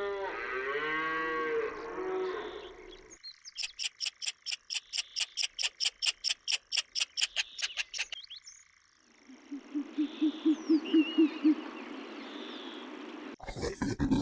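A cow moos once, a long call lasting about three seconds. Then comes a run of rapid, evenly spaced high chirps for about five seconds, followed by a low, quickly pulsing call over a hiss from another animal.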